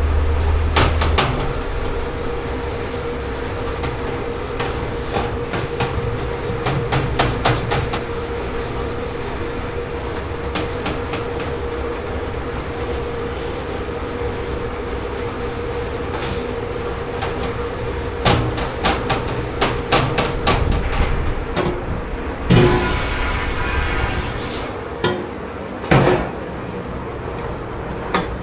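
Dishes, pots and trays knocking and clattering in a commercial kitchen dish pit, in scattered clusters, over a steady machine hum with a constant tone. About 22 seconds in, a hiss lasts about two seconds, and a louder knock comes near the end.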